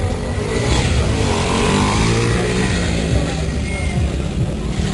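Motocross motorcycle engines running, with voices mixed in.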